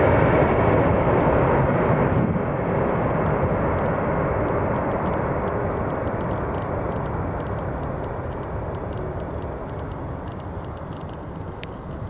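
Jet roar from a landing Boeing 747-400 airliner, a loud, even rumble that fades steadily as the aircraft moves away down the runway.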